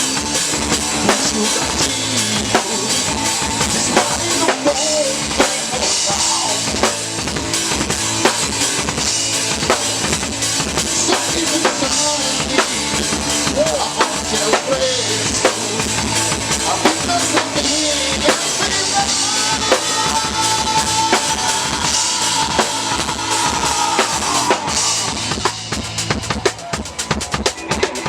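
Live rock band playing, heard from the drum kit, with the kit loudest: kick drum and snare driving under the rest of the band. A long held note sounds over it about two-thirds of the way in.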